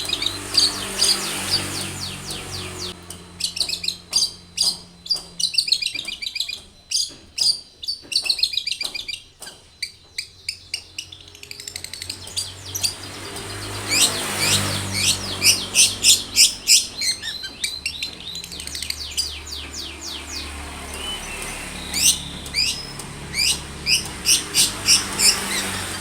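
Long-tailed shrike song: fast runs of high chirps and trills, with a stretch of rapid, harsh ticking chatter in the middle, over a faint low hum.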